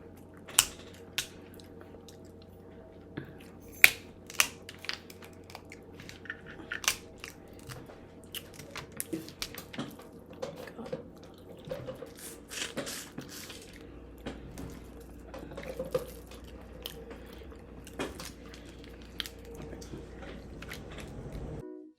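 Close-miked eating: chewing and wet mouth smacks with many short sharp clicks, over a steady low hum. The sound cuts off suddenly just before the end.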